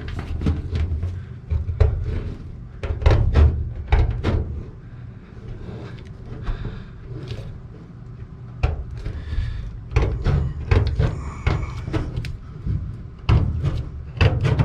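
Hand snips cutting sheet-metal ductwork to enlarge a hole: irregular clusters of sharp metallic clicks and crunches, with pauses between the bursts of cutting.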